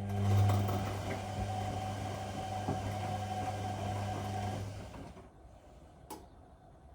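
Whirlpool Indiana 1400 washing machine's drum motor running with a steady hum as the drum tumbles the wet wash for about five seconds, then winding down and stopping. A single sharp click follows about a second later.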